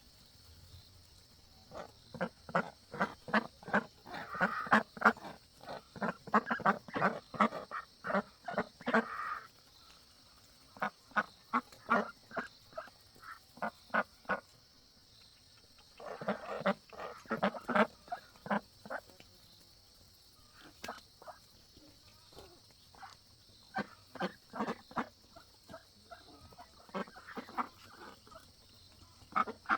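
Ducks quacking in rapid runs of short calls, several seconds of chatter at a time with brief pauses between.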